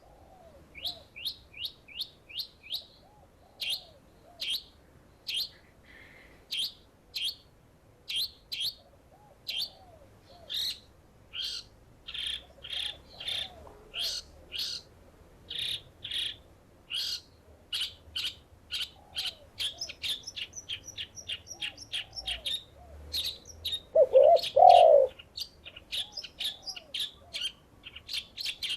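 Bird calls: a songbird gives a continuous run of short, sharp high chirps, several a second, while doves coo softly underneath. About 24 seconds in, a dove gives a loud double coo, the loudest sound.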